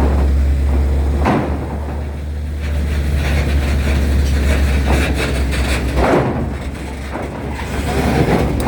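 Engines of large vehicles running with a steady low rumble, with a few short clunks along the way.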